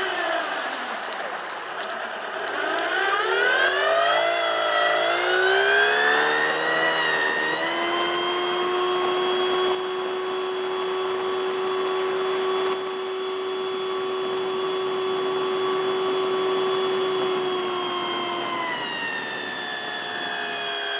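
Speedboat engine accelerating. Its pitch dips over the first couple of seconds, then climbs with a wavering tone for several seconds. It holds steady at high speed for about ten seconds and eases down a little near the end.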